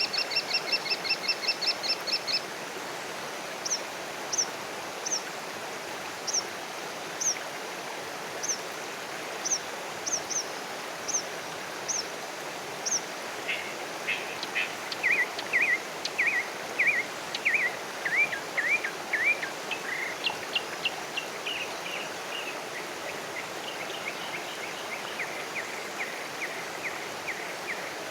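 Wild birds calling over a steady background hiss of outdoor ambience. A fast rattling trill opens, then single high chips about once a second, then a run of quick falling notes in the second half.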